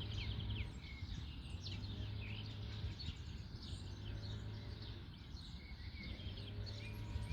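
Several songbirds singing in trees, many short quick chirps overlapping, over a steady low background hum.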